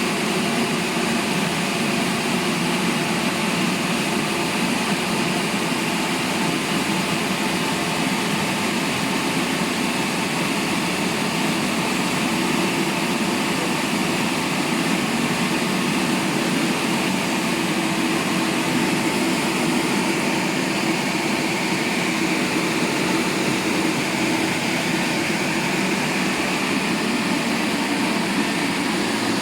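Double-arm touchless car wash machine running: a steady, even rush of noise with a faint hum underneath, from its high-pressure spray or drying blowers.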